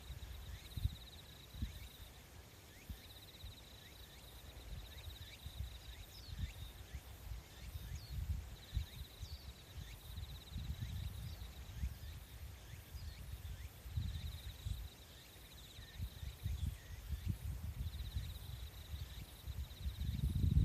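Outdoor nature ambience: insects trill in a high, pulsing band that comes and goes in stretches of a few seconds, with scattered brief high chirps and a low, uneven rumble underneath.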